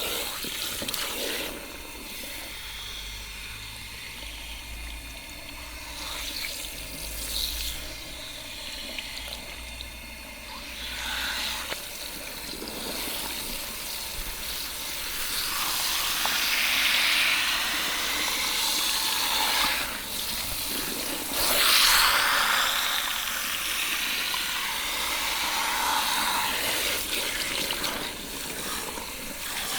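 Water running and splashing over hair into a shampoo basin during a hair rinse. It is softer at first and grows louder from about halfway, loudest a little past two-thirds of the way through.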